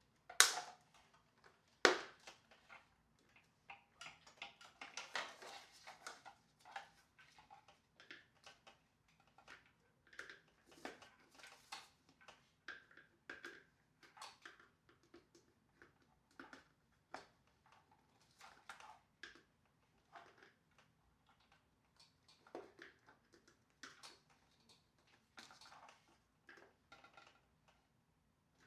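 Irregular clicks, taps and knocks of plastic parts being handled and fitted together while a floor washer is reassembled, with two louder knocks near the start.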